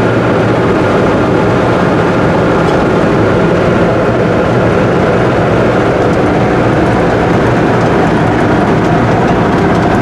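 Truck driving at road speed, heard from inside the cab: a loud, steady mix of engine and road noise.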